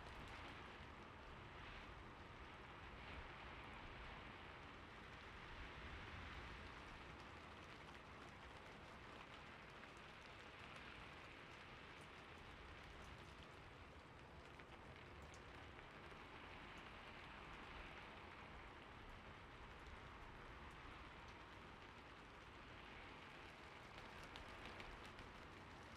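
Faint, steady gentle rain, swelling slightly now and then.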